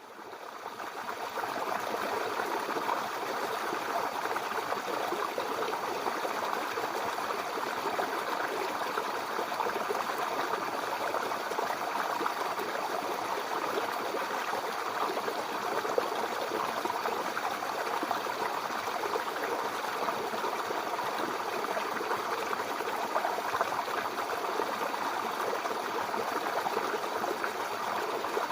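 Babbling brook: water flowing steadily, fading in over the first couple of seconds.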